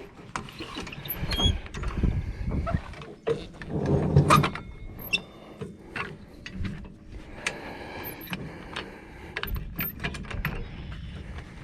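Irregular mechanical clanks, knocks and rattles of equipment being handled, with a louder cluster about four seconds in.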